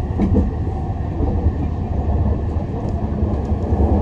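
SkyTrain car running along the guideway, heard from inside the front of the car: a steady low rumble with a faint high whine above it.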